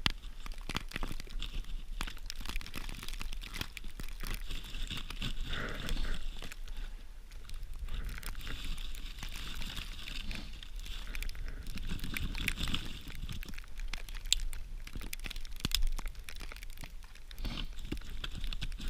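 Branches and birch bark being handled and laid down on snow: irregular crinkling and crunching with many small snaps.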